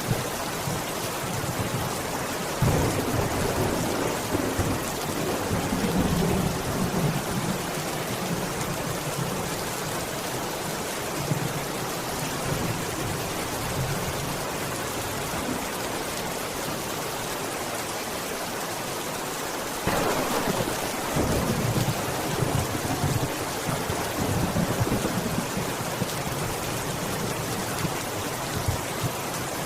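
Steady heavy rain falling, with rolls of thunder rumbling low: one starts suddenly about two and a half seconds in, and another about twenty seconds in.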